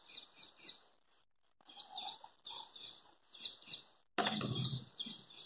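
A small bird chirping repeatedly, short falling chirps in quick groups of two or three, with a brief louder burst of noise about four seconds in.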